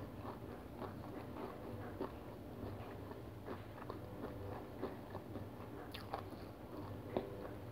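A person chewing a crunchy whole-grain cereal bar with the mouth closed: a run of small, irregular crunches, with sharper crunches about six seconds in and near the end.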